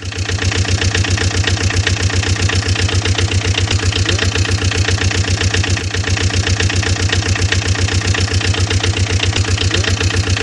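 Engine idling sound with a fast, even chugging pulse that holds steady, cutting in abruptly at the start.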